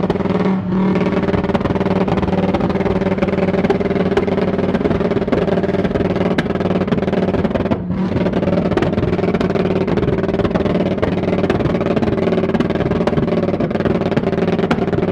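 A loud car engine held at steady high revs, with scattered sharp cracks over the drone.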